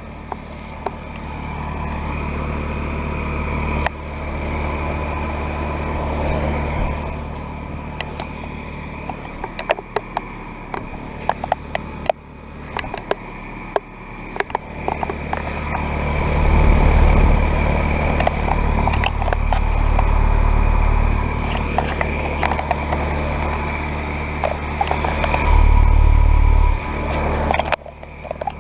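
Carrier Comfort heat pump outdoor units running in cooling mode, a steady hum from the condenser fan and compressor. A heavy low rumble swells and drops over it, and there are scattered sharp clicks.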